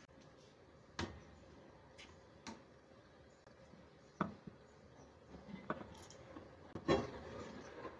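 A handful of light, separate clicks and taps, as of small objects being set down or handled, over a quiet room hiss; the loudest comes near the end.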